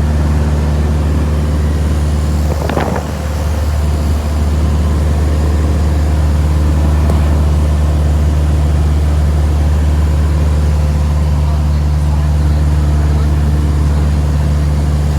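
Cessna 172S's four-cylinder Lycoming engine and propeller droning steadily in flight, heard from inside the cabin, with a short burst of noise about three seconds in.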